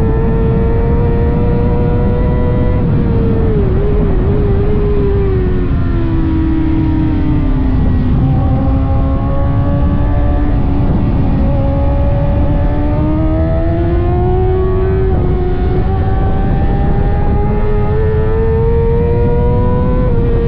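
600cc inline-four sport bike engine at racing speed over a heavy rush of wind noise. The engine note drops with a few quick wavers in the first third, then climbs steadily for the rest as the bike accelerates.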